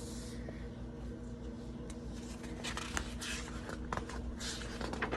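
Soft rustling and faint clicks of picture-book pages being handled and turned, over a steady low hum.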